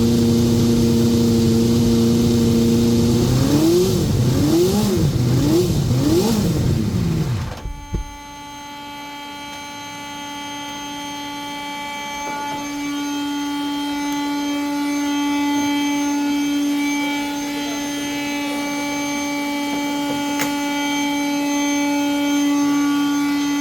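Williams FW29 Formula 1 car's engine held at a steady fast idle while warming up, then blipped about four times in quick rising-and-falling revs before cutting off about eight seconds in. After the engine stops, a steady, quieter high-pitched whine runs on.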